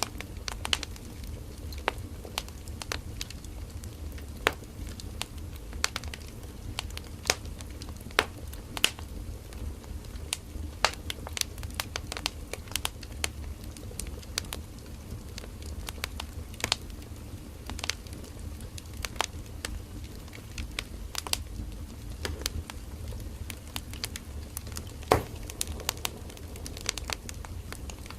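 Firewood burning in a bonfire: irregular sharp crackles and pops from the burning wood, several a second, over a steady low rumble of the flames.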